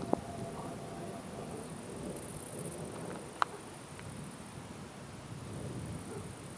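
Steady outdoor background noise with two sharp clicks, one just after the start and a louder one a little past the middle.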